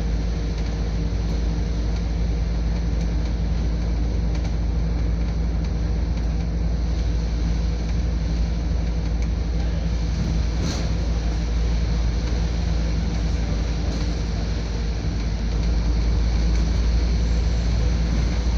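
Scania double-decker bus engine running steadily under way, heard from inside the bus as a deep, constant drone with a hum over it. A single sharp click comes about eleven seconds in, and the drone grows slightly louder near the end.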